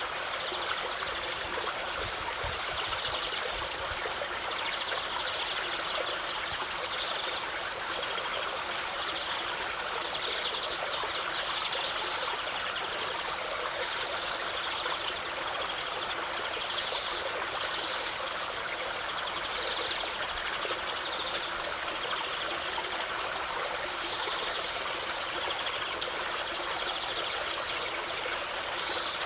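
River water flowing steadily over stones, an even rushing with small trickling splashes.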